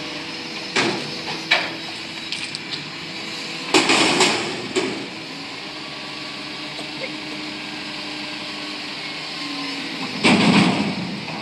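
Front-loader garbage truck running steadily, with loud bangs and clanks about a second in, a cluster around four to five seconds in, and another burst near the end, as of a dumpster being handled by the loader.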